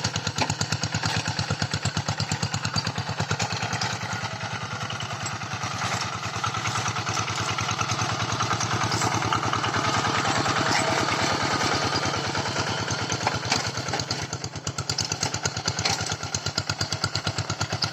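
Tractor engine running with a steady, rapid chugging, louder for a few seconds in the middle.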